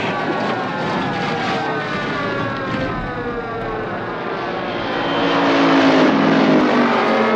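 Car-chase engine sound effects: several car engine notes sliding down in pitch as the cars pass, growing louder in the second half, with an engine note rising again near the end.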